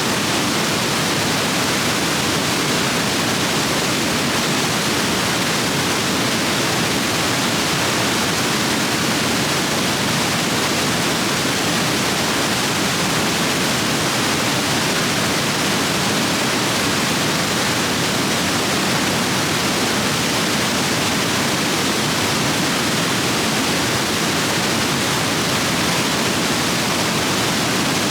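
Rain-swollen stream rapids rushing over rocks, a loud, steady roar of water.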